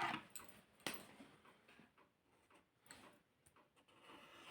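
Faint clicks and taps of a pen or marker being handled on paper, with two sharper clicks, one at the start and one about a second in, then scattered light ticks.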